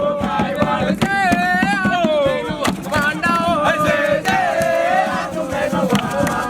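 A group of young voices singing and chanting a camp song together over a fast, steady percussive beat.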